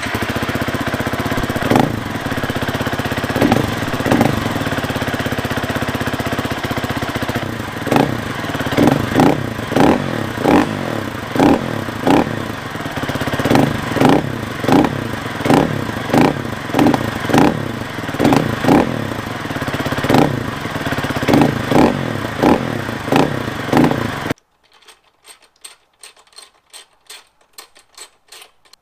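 Husqvarna FE 350s four-stroke single-cylinder dirt bike engine running through its stock muffler and stock end cap, revved with a long series of quick throttle blips. The engine sound cuts off suddenly, followed by faint rapid clicking.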